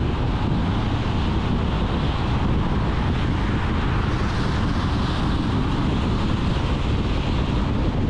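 Car driving at a steady speed: a constant low rumble of road and wind noise that does not change.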